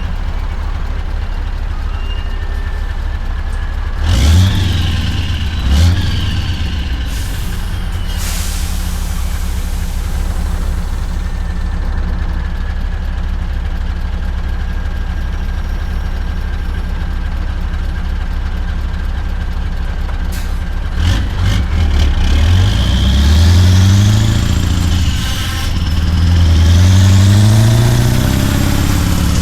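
Scania truck's V8 diesel engine running steadily, with two short loud bursts about four and six seconds in and a hiss of air around eight seconds. Near the end the engine pulls up through the gears: its note rises, drops at a shift and rises again.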